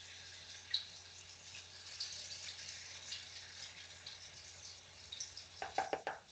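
Breaded chicken pieces frying in hot oil, a steady crackling sizzle with small pops. Several sharp clicks come close together near the end.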